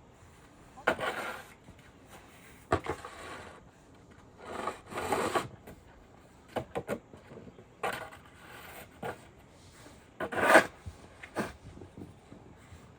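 Several separate scraping or rubbing strokes, irregularly spaced, each about half a second to a second long, the loudest about ten and a half seconds in.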